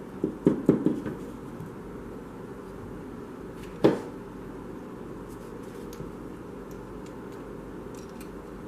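Hard parts or tools being handled on a work surface during disassembly of a Milwaukee tire inflator: a quick run of clicks and knocks in the first second, then one sharper knock about four seconds in, over a steady background hiss.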